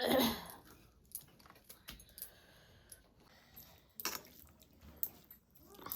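Close-up eating sounds from a plate of rice and spicy chicken curry: mouth noises with small sharp clinks and clicks. The loudest noisy sound comes right at the start, with another about four seconds in.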